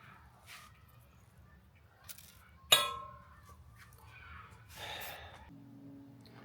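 A single sharp metallic clink with a short ring about three seconds in, as a steel part is knocked or set down. Faint handling knocks and a brief rustle come around it, and a faint steady hum starts near the end.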